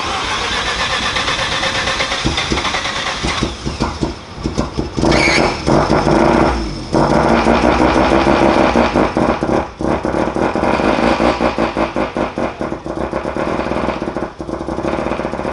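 Mazda RX-7 FD's turbocharged rotary engine running with the hood open, revved briefly about five seconds in.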